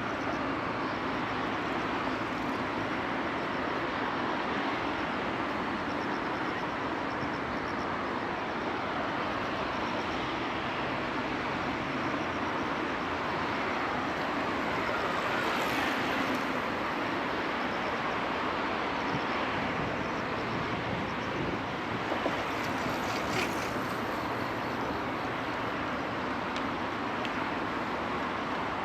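Steady hum of city traffic along the river at night, an even wash of noise with no single machine standing out. It swells a little about halfway through, and a few faint clicks come a little past two-thirds of the way in.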